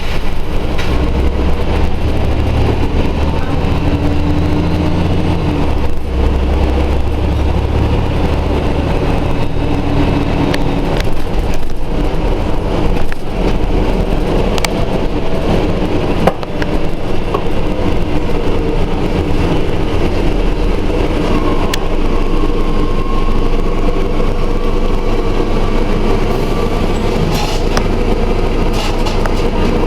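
Scania Omnidekka double-decker bus running: a steady low engine note for the first ten seconds or so, then a rougher mix of engine and road noise. A faint whine rises gently in the second half, and there are a few sharp clicks.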